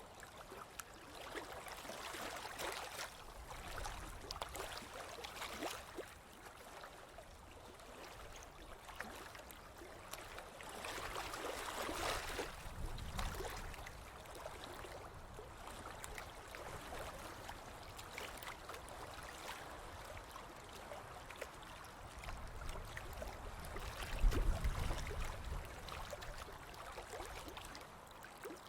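Ocean waves breaking and washing up a beach: a steady wash that swells several times, the loudest wave near the end carrying a low rumble.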